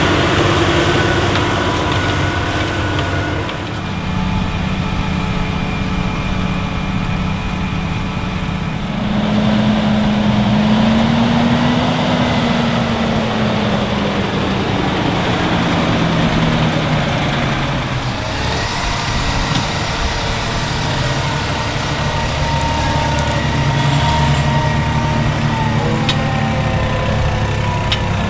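Diesel engines of heavy farm machinery running under load. The engine note rises over a few seconds and then falls slowly, and the sound changes abruptly a few times as one machine's clip gives way to the next.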